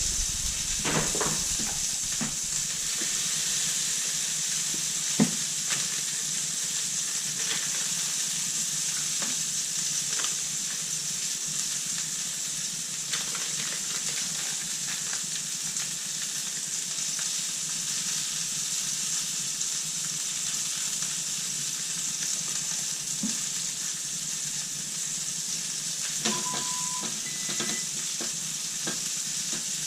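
Food sizzling steadily in a hot frying pan, with occasional light clicks of utensils. Near the end comes a short steady beep-like tone.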